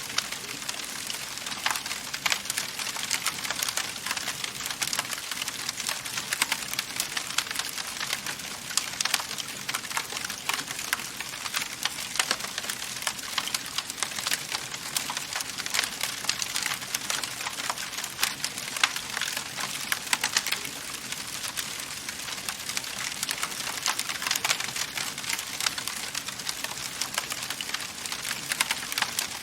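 Wood fire burning in a fireplace, crackling steadily with many small, sharp pops and snaps over a soft hiss.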